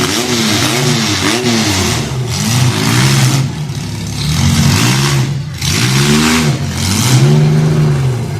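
Demolition derby car engines revving hard, the pitch rising and falling over and over as the cars accelerate and back off, over a loud rough din.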